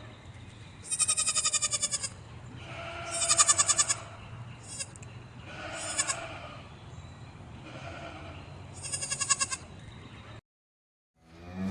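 Sheep or goats bleating: about five separate bleats, several with a fast quaver, the loudest about three seconds in. The sound cuts out abruptly near the end.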